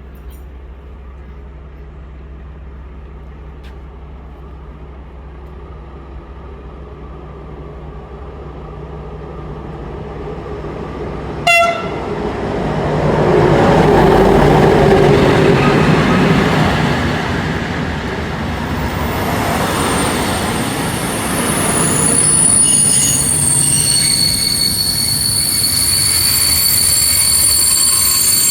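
Class 441 electric locomotive and its train approaching, with a short horn blast about a third of the way in. The train then passes with a loud rumble of wheels on rail, followed by high-pitched squealing as the cars roll by.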